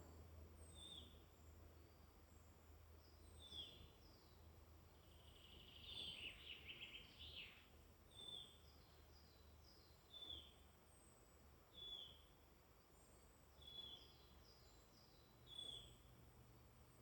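Quiet woodland birdsong: one bird repeats a short, high, falling call about every two seconds, and a burst of rapid trilled song from another bird comes about six to seven seconds in, over a faint steady low rumble.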